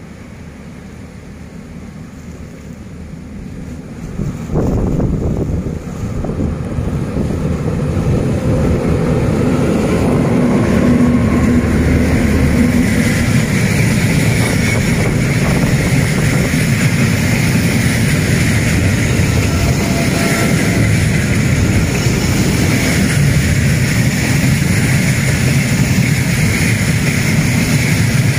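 Freight train hauled by two diesel locomotives, a Vietnam Railways D20E and a D11H, running through a station: the engines' rumble grows louder as the train approaches, with a sudden step up about four seconds in, then holds loud and steady as it passes.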